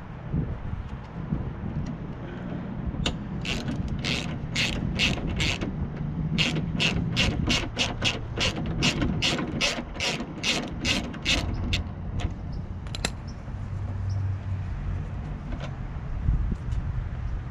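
Hand ratchet wrench clicking in quick, even strokes, about three clicks a second with a short pause partway through, as a bolt is turned out.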